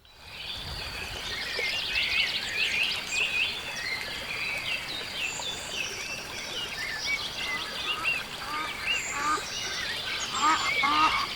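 Marsh bird chorus: many small birds chirping busily over a steady background hiss. From about eight seconds in, waterfowl join with a run of repeated honking calls, the loudest sounds near the end.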